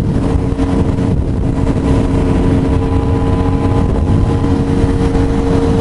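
Sportbike engine running at a steady cruise, its note holding level, under heavy wind rush on the helmet-mounted microphone.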